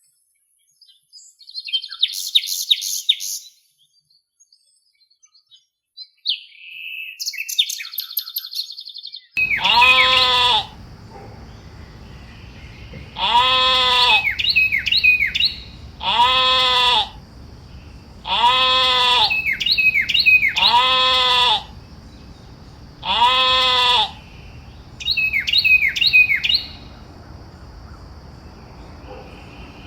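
Small birds chirping in quick high trills. Then, from about nine seconds in, an animal bleats about six times, each call roughly a second long, with shorter high falling calls in between, over a steady insect-like background buzz.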